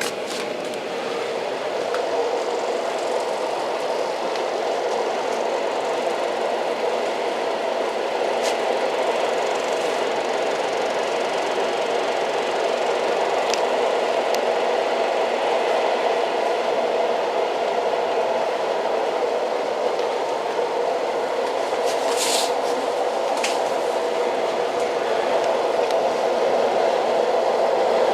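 Old train running with a steady, even rattling noise, broken by a few short sharp clicks, the loudest about two-thirds of the way through.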